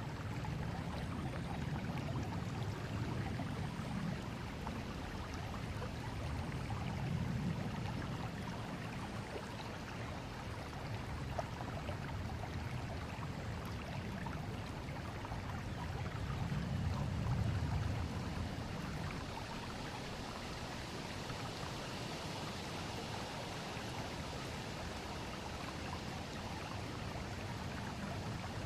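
Forest river flowing: a steady, even rush of running water, its low part swelling and easing every few seconds.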